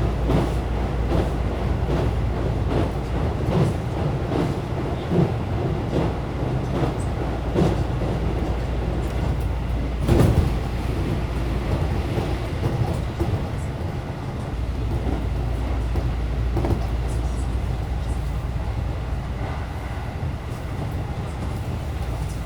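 JR local commuter train running at speed, heard from inside the carriage: a steady low rumble with the wheels clacking over rail joints, and one louder knock about ten seconds in.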